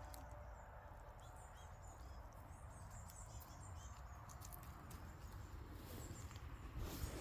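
Quiet woodland ambience: faint, high bird chirps over a low rumble, with a few light rustles in leaves near the end.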